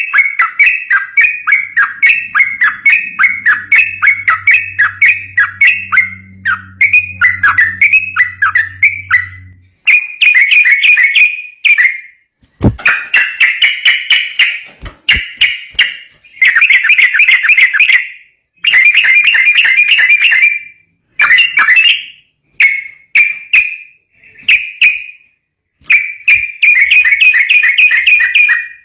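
Yellow-vented bulbul (trucukan) singing a fast 'ropel' chatter of rapidly repeated notes. The song is continuous for the first ten seconds, then comes in bursts of one to two seconds with short pauses. A faint low hum lies under the first ten seconds.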